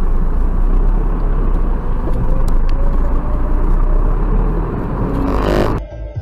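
Steady low rumble of a car's engine and road noise heard from inside the cabin on a dash camera. It cuts off abruptly near the end, giving way to music.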